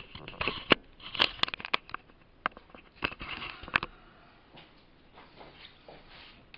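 Sharp clicks and light knocks as a cut glass pane and strips of edging are set down and shifted on a board, several in quick succession over the first few seconds, then quieter handling.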